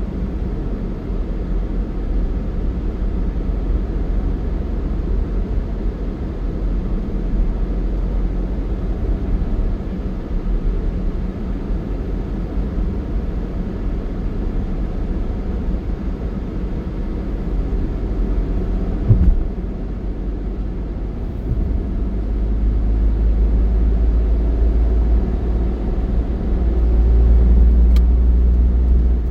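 Steady low rumble of a moving road vehicle and its tyre and road noise, with a brief thump about two-thirds of the way through and the rumble growing louder near the end.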